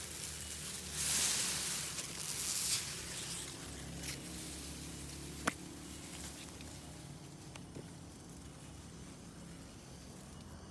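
Rustling of grass and leaves being handled or pushed through for the first few seconds, with a single sharp click about five and a half seconds in; after that only a faint low background.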